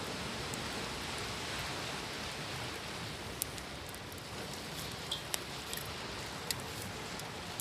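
Wood campfire crackling, with a few sharp pops in the second half, over a steady wash of ocean waves.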